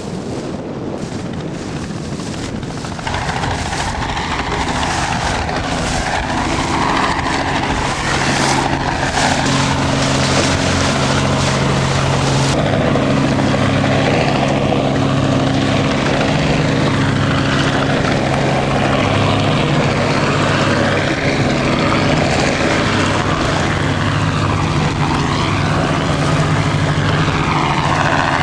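Helicopter running close by during takeoff and landing practice, growing louder over the first several seconds and then holding steady, with a deep engine drone under a higher whine that rises and falls.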